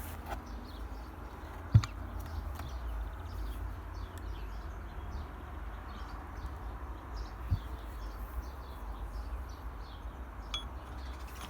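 Small birds chirping faintly throughout over a low steady hum, with one sharp knock a couple of seconds in and a lighter knock later on.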